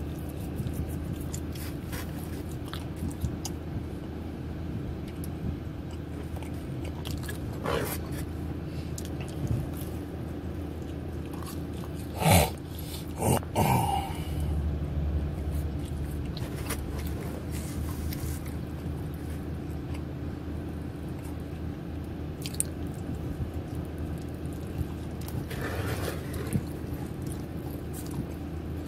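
Close-up mouth sounds of a person biting and chewing pepperoni pizza dipped in white dressing, over a steady low hum. Two short, louder thumps come a little under halfway through.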